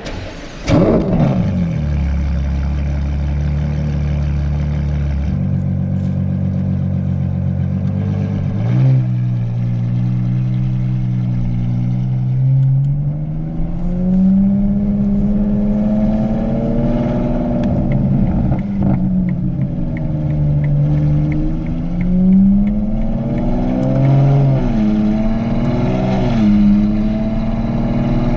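Ferrari Purosangue V12 with a Novitec race exhaust firing up about half a second in with a sharp flare, then holding a steady fast idle that drops to a lower idle after about five seconds. From about eight seconds on it runs under light load at low revs, its pitch rising and falling gently.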